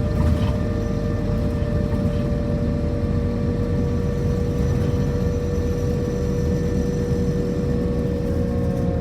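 Scania K230UB city bus engine running at a steady pace, a low rumble under a steady high-pitched whine.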